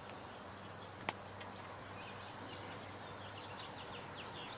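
Faint birds chirping in outdoor background ambience, with one sharp click about a second in.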